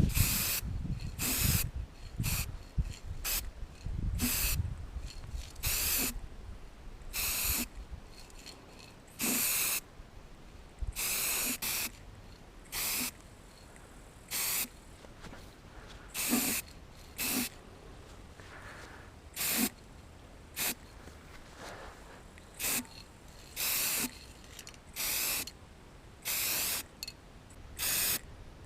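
Aerosol can of heat-resistant paint spraying in about twenty short hissing bursts, each from a fraction of a second to about a second long, with brief pauses between. There is some low handling rumble in the first few seconds.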